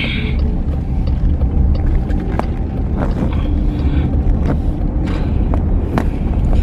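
Van cabin noise while driving: a steady low rumble of engine and road, with a few light clicks and knocks.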